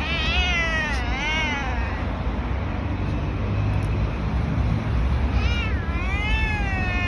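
A domestic cat meowing: two meows one after the other at the start, then a pause of about three seconds and two more meows near the end, over a steady low rumble.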